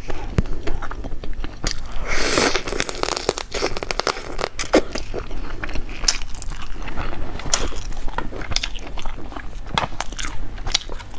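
Close-miked eating: a person biting and chewing, with many small crunches and mouth clicks at an irregular pace.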